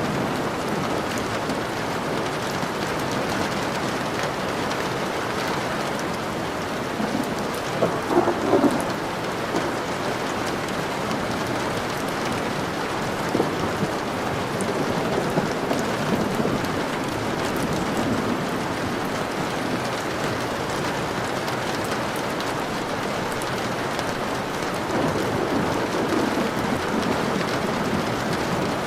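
Steady rain falling in a thunderstorm, with rolls of thunder rising over it, the loudest about eight seconds in and another near the end.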